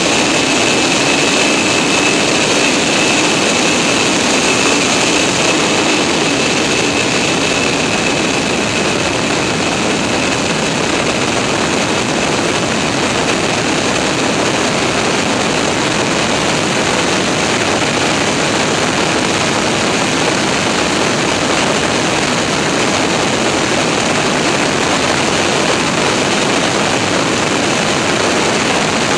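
Steady, loud rush of jet engine noise and airflow around a Boeing 747's landing gear, heard from a camera mounted in the gear. A high whine within it fades away over the first several seconds.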